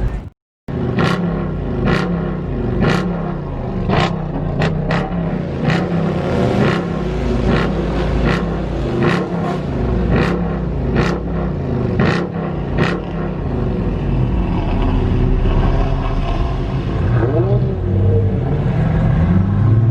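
A car engine being revved over and over, its pitch rising and falling about once a second, with a sharp crack from the exhaust on each cycle. After about 13 seconds the cracks stop and the engine runs more evenly, with one rising rev near the end.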